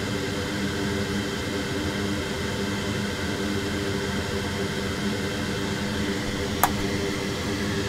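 Steady whir of an electric fan with a low hum, typical of workbench fume-extractor or blower noise. A single sharp click sounds once near the end.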